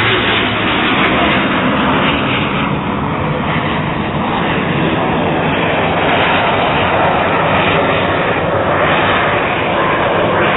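Propeller airplane with a Pratt & Whitney R-985 radial engine flying an aerobatic routine, its engine and propeller making a loud, steady drone.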